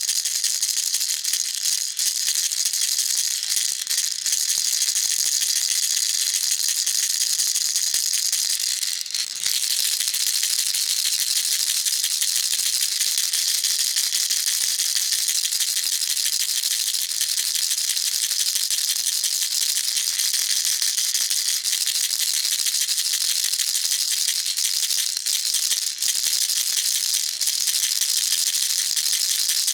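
Baby rattle shaken continuously in a fast, even shake, a dense high-pitched rattling with a brief break about nine seconds in.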